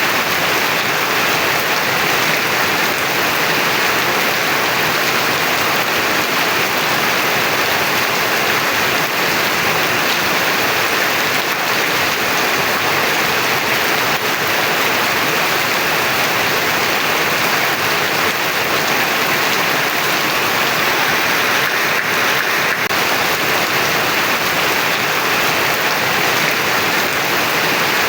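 Heavy rain pouring steadily in a dense, even hiss.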